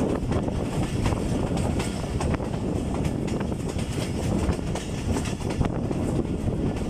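Passenger train running along the track: a steady low rumble and rattle with frequent irregular clicks from the wheels and carriages.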